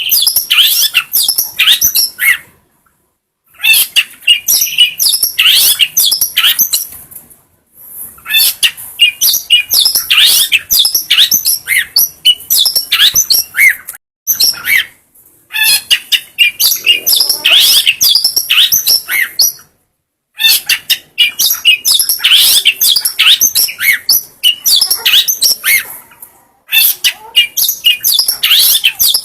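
Long-tailed shrike (cendet) singing a rapid, high-pitched chattering song of quick chirps and short whistles, in phrases of a few seconds broken by silences of about a second.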